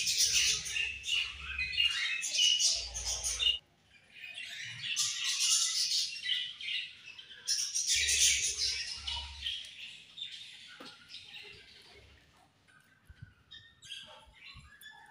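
A group of budgerigars chattering and chirping in dense, high-pitched stretches with short breaks, thinning to scattered chirps near the end.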